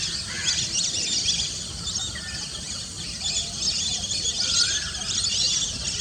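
A flock of lesser whistling ducks calling: many overlapping high, wheezy whistling calls, with a few lower slurred whistles now and then.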